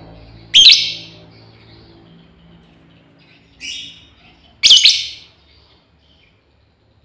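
Female lovebird giving shrill calls to its flock, three short screeches: a loud one about a second in, a softer one at about three and a half seconds, and another loud one just before five seconds.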